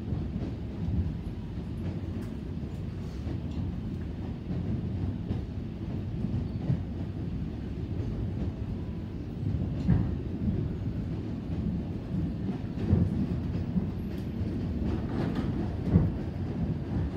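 Electric commuter train running, heard from inside the carriage: a steady low rumble of wheels on rails, with a few sharp knocks from the wheels over joints.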